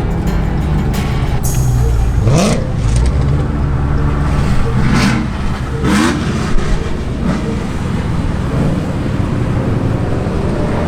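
V8 muscle-car engines rumbling at low speed, with a few quick revs that rise in pitch about two, five and six seconds in.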